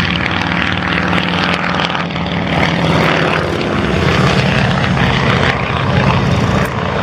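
Avro Anson Mk.I's twin Armstrong Siddeley Cheetah radial engines and propellers droning steadily as the aircraft flies its display.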